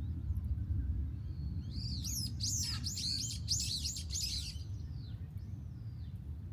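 A small songbird singing a quick run of high, looping chirps lasting about three seconds, then a few fainter notes, over a steady low rumble.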